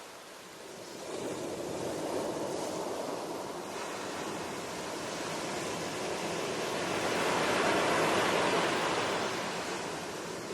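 Ocean waves washing in and out: the surf swells over several seconds to its loudest about three-quarters of the way through, then eases off.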